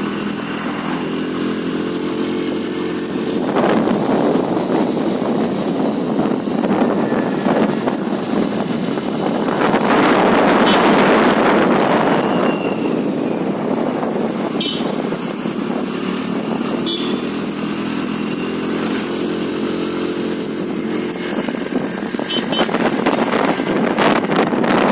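Honda Dio scooter's engine running steadily while riding. Two louder rushing swells come in, one about four seconds in and a longer one around ten seconds in.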